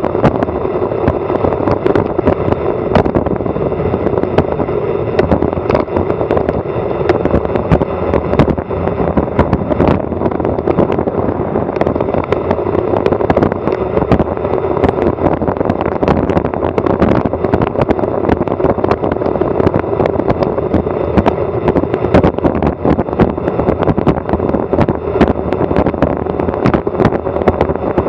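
Wind rushing over an action camera's microphone on a fast bicycle descent, a loud, steady roar with many small clicks and rattles throughout from the bike and camera mount on the road surface.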